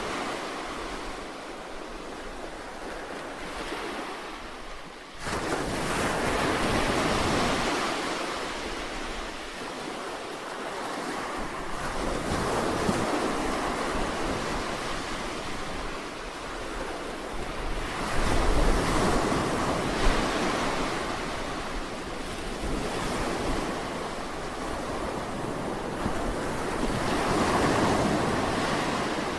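Sea waves breaking and washing on the shore in slow surges every several seconds, with wind noise on the microphone.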